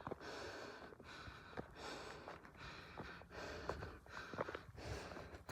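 Heavy rhythmic breathing, a breathy puff a little more than once a second.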